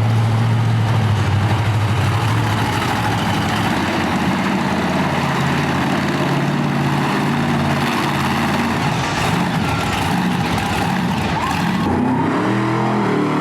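Monster truck engine running loud, its pitch shifting with the throttle, then revving up near the end.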